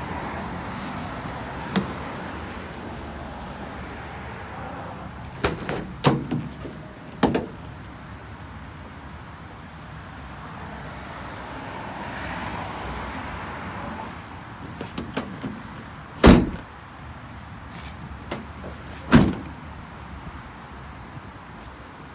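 Doors of a Peugeot Partner refrigerated van being opened and shut: a series of clicks and knocks, with two loud slams about three seconds apart in the second half.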